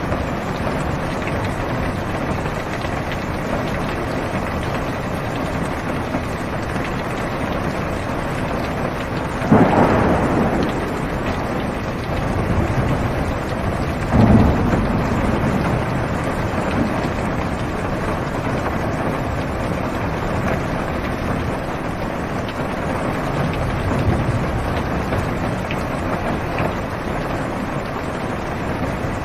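Steady heavy rain falling on a car's roof and windows, heard from inside the car. Two sudden thunder claps come about ten and fourteen seconds in, each trailing off into a rumble.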